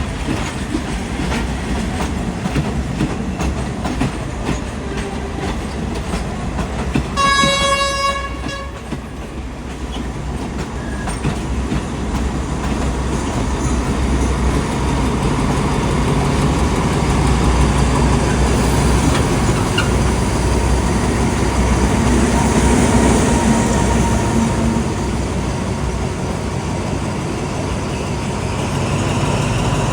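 Diesel train running through the station with wheels clattering over the rail joints. One horn blast of about a second and a half sounds about seven seconds in. The engine rumble grows louder in the second half.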